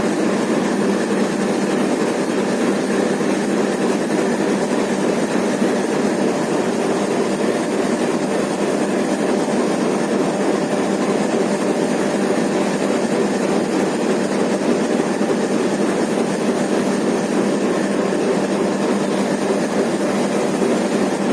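Diesel locomotive engine running steadily, an even drone with no change in pitch or level.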